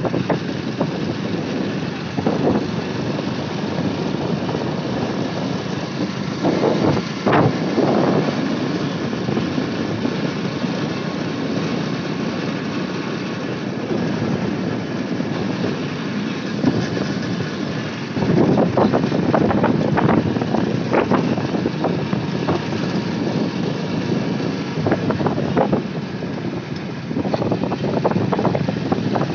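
Motorcycle engine running steadily while riding, with louder swells now and then and a few short knocks.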